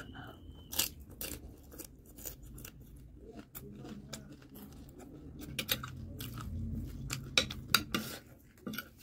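Close-miked chewing of panipuri and spicy chatpate noodle mix, with many small sharp mouth clicks. Near the end a metal spoon clinks and scrapes on the plate, two sharp clinks the loudest sounds.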